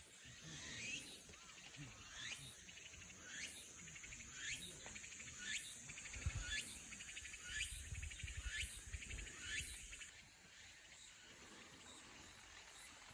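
Outdoor animal calls: a series of about nine rising, upswept notes roughly a second apart with a buzzing trill between them. The calls stop about ten seconds in. A low rumble sounds in the middle of the series.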